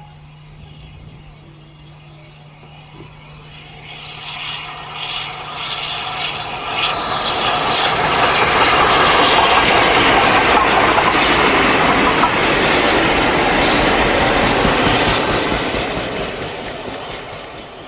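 A train passing, its noise building, peaking in the middle for several seconds and then fading away, with wheels clattering over the rail joints.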